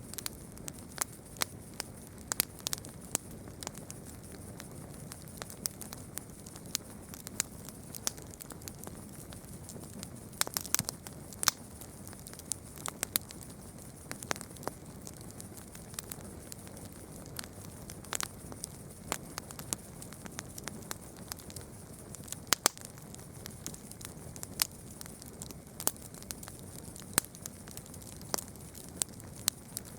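Campfire burning, wood crackling with irregular sharp pops over a steady low hiss of the flames.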